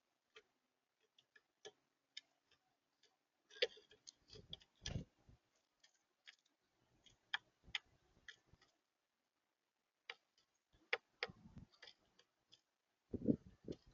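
Irregular light taps and clicks of birds or squirrels feeding on a bird feeder close to the microphone, with a few heavier knocks and thumps about four seconds in, around eleven seconds and near the end.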